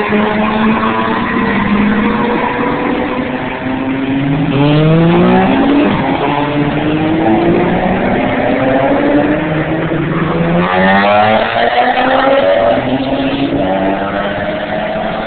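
A line of BMW track cars pulling away one after another, several engines overlapping with their revs rising as each car accelerates off, with fresh climbs about four seconds in and again about ten seconds in.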